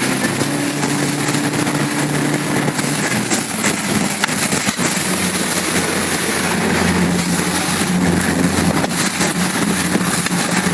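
Strong wind rushing over the microphone and the water, with a motorboat's engine running underneath. The engine's pitch drops about three and a half seconds in, then holds steady.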